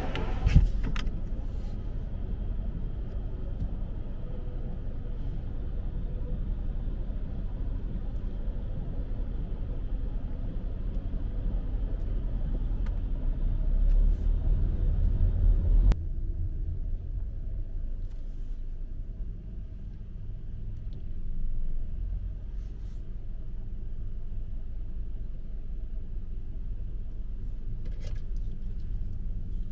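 Steady low rumble of vehicle road noise, with a single click less than a second in and an abrupt change to a quieter rumble about halfway through.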